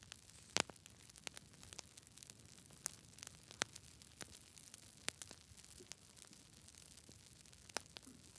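Wood fire crackling: irregular sharp pops and snaps over a faint steady hiss, the loudest pop about half a second in.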